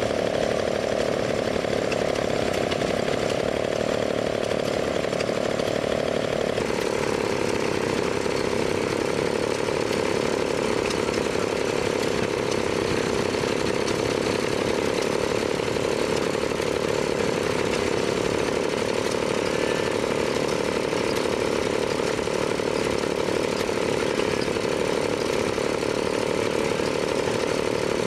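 An engine running steadily close by, a continuous drone whose note drops slightly about six seconds in and then holds.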